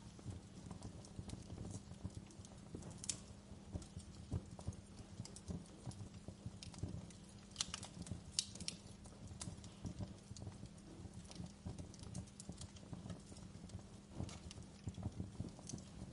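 Wood fire crackling: a steady run of small pops and snaps over a low rumble, with a few sharper, louder snaps about three seconds in and again around eight seconds in.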